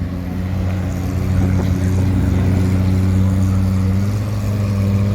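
Car engine running steadily at a constant low pitch.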